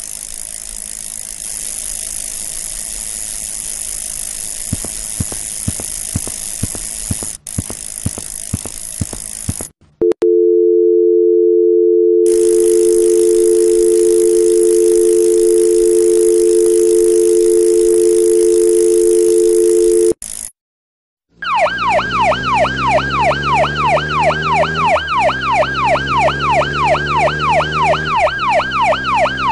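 Sound effects in three parts. First a steady hiss with a run of sharp clicks; then two steady tones together, like a telephone dial tone, for about ten seconds; then a fast yelping siren, about three rising sweeps a second, over a low stepped tune.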